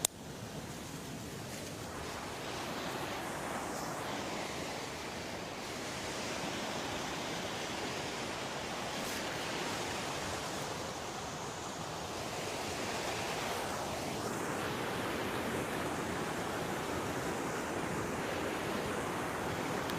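River water rushing, a steady noisy rush that builds up over the first couple of seconds and then holds.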